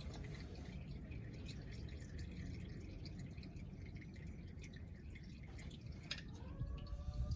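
Used engine oil dripping and trickling from the car into a drain pan, over a steady low rumble. A sharp click comes about six seconds in, followed by a faint rising squeak.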